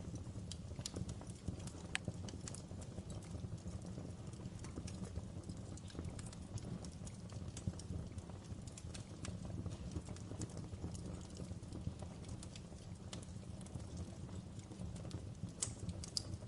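Wood fire crackling in a fireplace: irregular sharp pops and snaps over a steady low rumble, with a few louder pops near the end.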